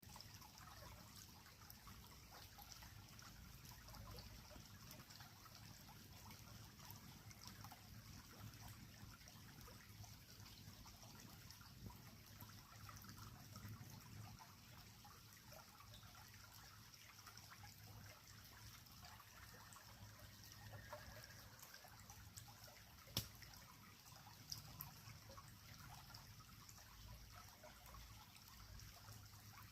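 Faint, steady trickle of a flowing creek, with scattered crackles and pops from a wood fire. The sharpest pop comes about three-quarters of the way through, and two smaller ones follow soon after.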